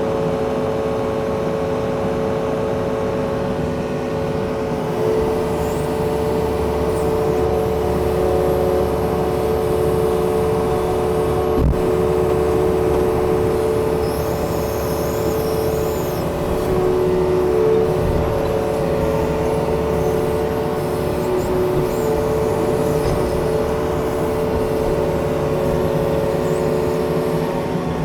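Yanmar diesel engine running steadily, heard from inside the machine's closed cab. Its note shifts slightly about five seconds in, and there is a single sharp knock near the middle.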